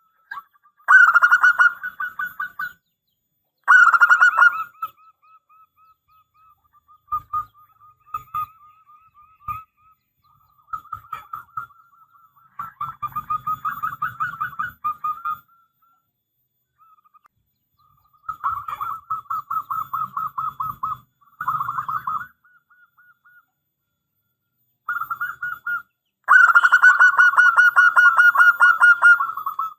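Zebra dove (perkutut) cooing in repeated phrases of rapid, rattling staccato notes, separated by short pauses. The loudest phrases come about a second in, at about four seconds, and over the last few seconds.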